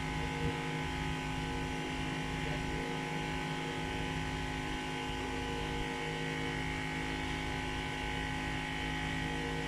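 Steady electrical mains hum made of several fixed tones, with a faint click about half a second in.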